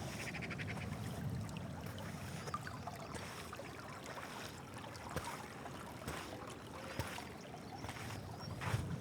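Waves washing on a rocky beach under a steady rush of wind, with a short, rapid chattering call near the start and a few sharp clicks later on.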